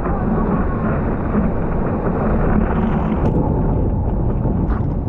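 Surf and wind on an action-camera microphone: a steady, loud rush of breaking white water and wind buffeting.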